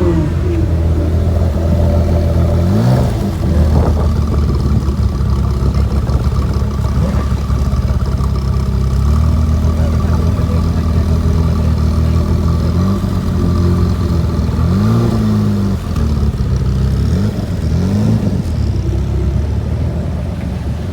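A supercar engine idling with a low, steady note. It is blipped into short revs about three seconds in and three more times in the last third.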